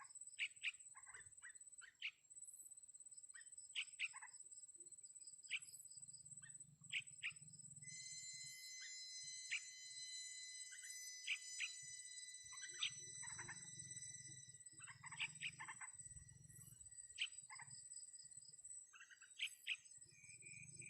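Short, sharp, high chirps from a wild bird with its young, coming every second or two. A thin steady high-pitched whine runs under them.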